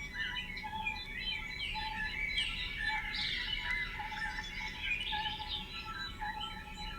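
A dense chorus of many small birds chirping and twittering, with overlapping calls throughout, over a few faint steady tones.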